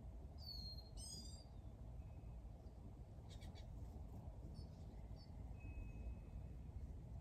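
Small birds calling in short high chirps, with a quick run of rising and falling chirps about a second in and a thin held whistle near the end, over a low steady outdoor rumble.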